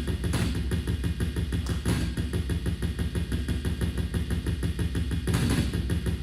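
Drum kit played in a drum solo: a fast, even run of low, heavy strokes, with a few louder accents about half a second in, near two seconds and around five seconds in.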